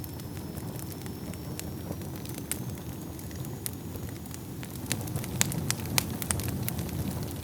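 Wood fire burning in a fireplace with a low steady rumble and irregular sharp crackles and pops, which grow denser and louder about five seconds in. A faint thin high whistle runs through the first half.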